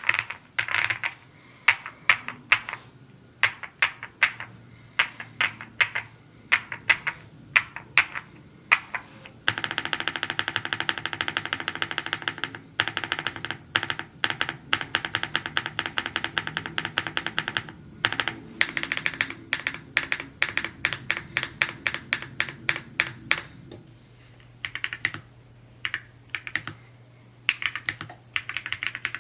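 Typing on an Evo80 mechanical keyboard, keystrokes clacking in irregular bursts. A dense, fast run of strokes lasts about eight seconds in the middle.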